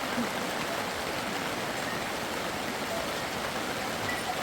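Steady rushing of running water, an even wash of noise with no breaks.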